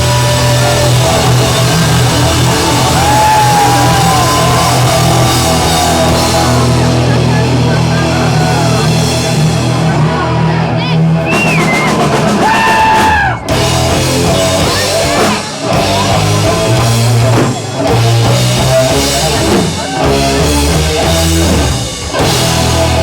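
Live hard rock band playing loud: distorted electric guitar with bending lead lines over drum kit and bass. Several brief stop-start breaks come in the second half.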